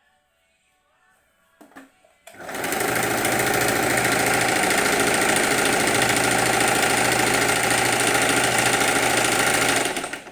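Electric sewing machine running fast and steadily for about seven seconds, starting after a couple of light clicks about two seconds in and then stopping.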